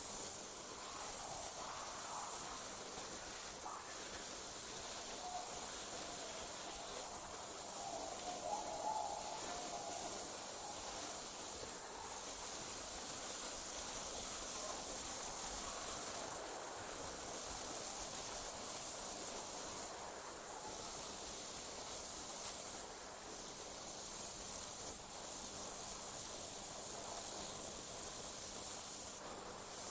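Crickets trilling in a steady, high-pitched chorus that breaks off for a moment every few seconds.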